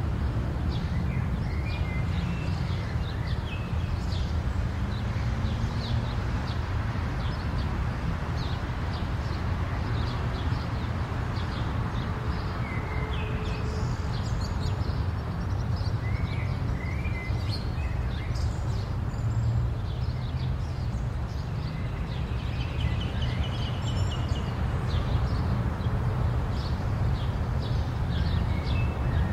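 Outdoor ambience: birds chirping in short calls, scattered throughout, over a steady low rumble.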